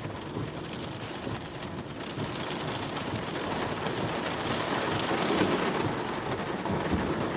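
Heavy monsoon rain pattering on a car, growing gradually louder.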